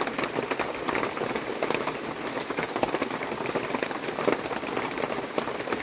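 Rain falling steadily on a surface: a dense, even patter of many small drops.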